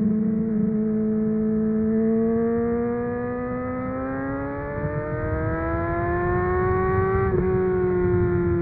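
Honda CBR600RR's inline-four engine through a MIVV Suono exhaust, pulling hard in gear with the revs climbing steadily for several seconds. About seven seconds in there is a brief break as it shifts up, and the pitch settles a little lower.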